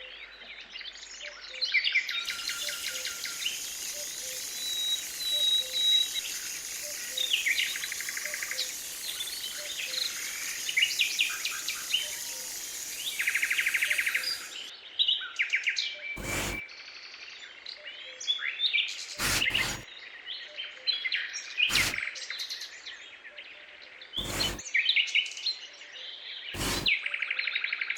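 Small birds chirping and twittering throughout, with a steady hiss during the first half. In the second half there are about five sharp knocks, roughly every two to three seconds.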